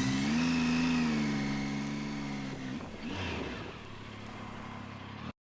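Motorcycle engine rising in pitch, holding steady, then dropping away, with a second brief rise and fall; it fades and cuts off suddenly near the end.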